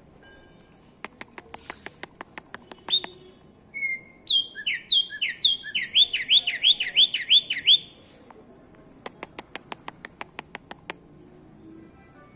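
A bird singing. It gives a run of rapid, very high ticks, then a loud phrase of about a dozen quick swooping whistled notes repeated in a row, then another run of ticks.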